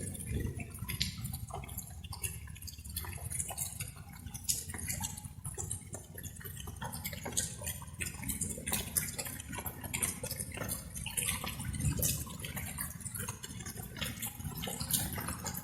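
Light rain: water drops pattering and dripping irregularly, close by, over a steady low rumble.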